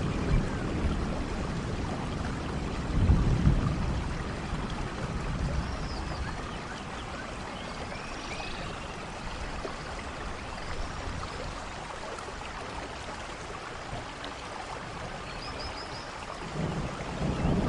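Steady rainfall in a forest, with low rumbles of distant thunder about three seconds in and again near the end, and short bird calls scattered over the rain.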